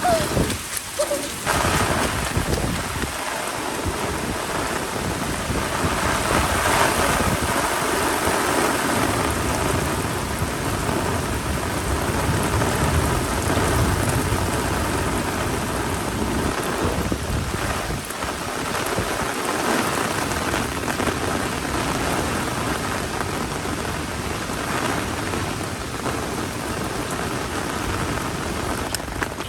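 Heavy rain pouring steadily, with low rolling rumbles of thunder.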